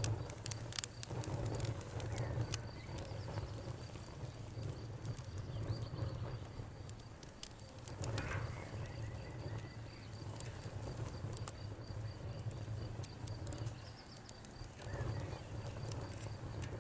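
Wood fire crackling with scattered sharp pops, over a steady, rapidly pulsing chirp of crickets and a low rumble.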